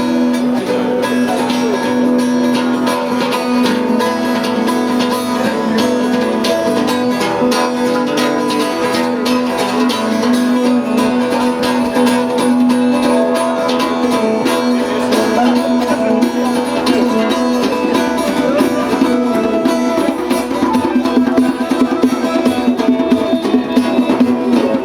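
Live band playing an instrumental introduction: plucked string instruments over a steady held drone, the playing growing more accented in the last few seconds.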